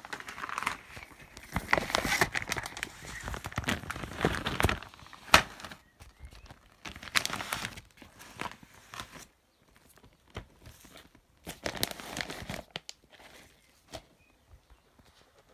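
Packaging of a three-rocket firework pack crinkling and rustling as it is handled and turned over, busiest in the first five seconds, with a sharp knock about five seconds in. Scattered smaller rustles and taps follow.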